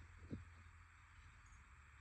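Near silence: faint outdoor background, with one short soft thump about a third of a second in.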